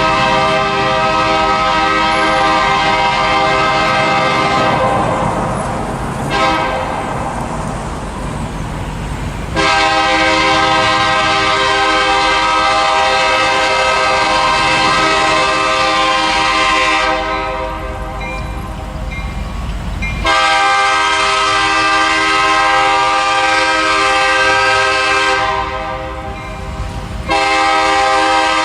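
Nathan K3LA multi-chime air horn on a CN SD60 locomotive, sounding a series of long blasts five to seven seconds each, separated by short pauses, with a low train rumble underneath.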